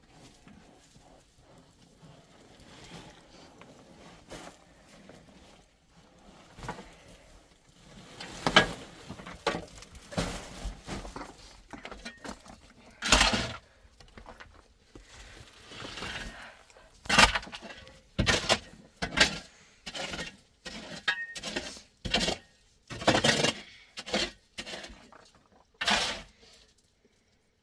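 Irregular knocks and clatter of hard objects being handled, starting about eight seconds in and coming in quick clusters, some sharp and loud.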